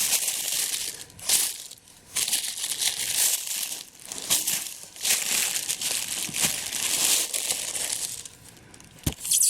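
Packaging being handled and unwrapped: repeated crinkling and rustling in irregular bursts, with a couple of sharp knocks near the end.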